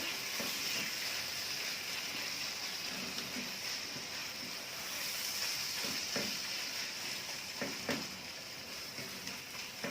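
Minced chicken frying in hot oil in a pan with a steady sizzle. A few faint scrapes of the stirring spoon come through, about half a second in, around six seconds and around eight seconds.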